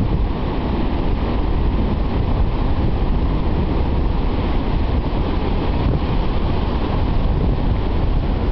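Steady rumble of big winter-storm surf breaking, with wind buffeting the microphone and a heavy low roar throughout.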